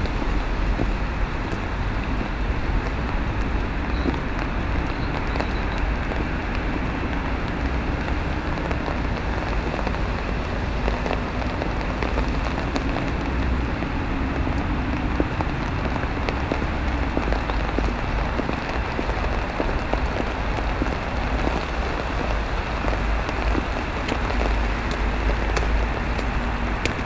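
Steady rain and sleet falling and pattering without a break, over a low rumble.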